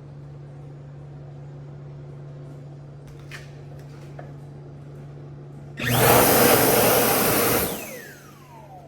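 High-speed electric hand dryer blasting for about two seconds, starting abruptly, then shutting off with its motor whine falling in pitch as it spins down. A steady low hum underlies the rest.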